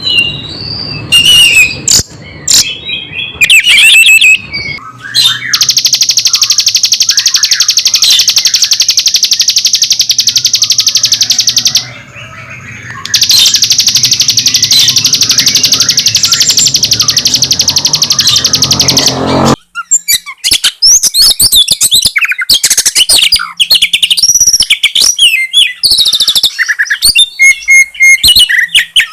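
Bird song: a rapid, even, machine-like chatter of a hill prinia (ciblek gunung), repeated in two long runs, then, after an abrupt splice about twenty seconds in, the varied whistled and sliding phrases of an oriental magpie-robin (kacer).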